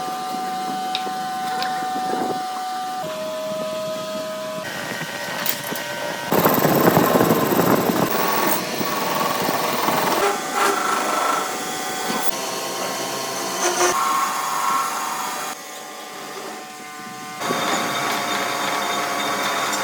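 Workshop power tools or machine tools running, heard in several abruptly cut segments with steady whining tones, the loudest and harshest stretch about six to ten seconds in.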